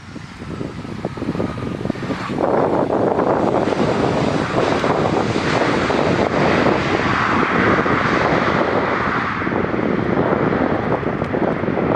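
Jet engines of an Airbus A320 airliner passing close on its landing approach. The noise swells loudly about two seconds in, stays loud with a brighter hiss in its upper part later on, and cuts off suddenly near the end.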